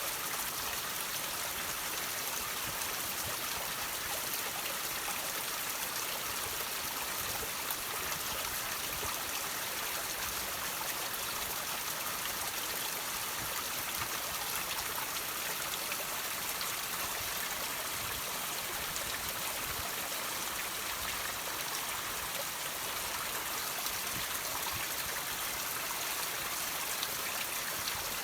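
Water trickling and dripping off rocks, a steady hiss of running water with many small drip ticks.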